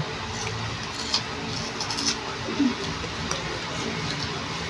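Chewing crisp unripe mango slices close to the microphone: a few scattered soft crunches and mouth clicks over a steady background hiss.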